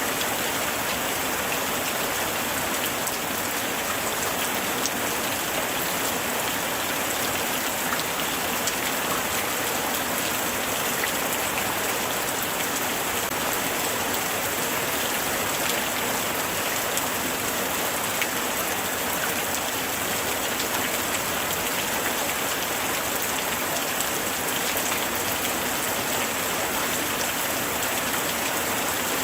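Light rain falling steadily, an even hiss of drops on surfaces with scattered individual drop ticks.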